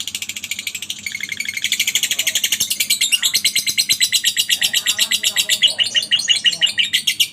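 Lovebird ngekek: one long, unbroken high-pitched chattering trill of rapid repeated notes, about a dozen a second, kept up without a pause.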